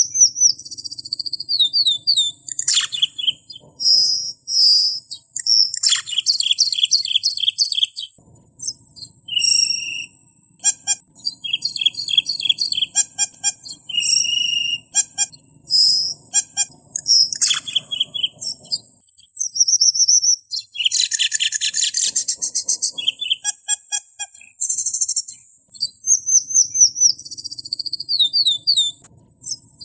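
Cemperling songbird singing in bursts of high chirps, rapid trills and descending runs of whistled notes, with short pauses between phrases and a dense buzzy trill about two-thirds of the way through: a song recording used to tutor caged songbirds.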